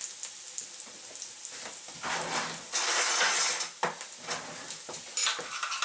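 Chicken, onion and pepper stir-fry sizzling in hot oil in a wok. The sizzle grows louder for about a second midway, with a few light clicks.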